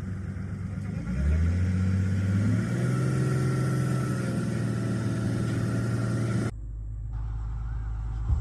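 Truck engine revving up about a second in, then running steadily at raised revs; near the end the sound changes abruptly to a lower, steady rumble.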